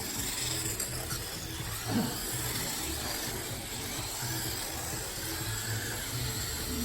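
Electric radio-controlled Dancing Rider racing trikes running during a race, heard as steady mechanical noise.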